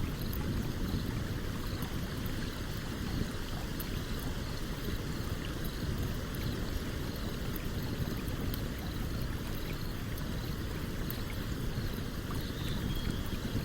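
Stream water running steadily, with a campfire's wood crackling in small, sharp pops scattered over it.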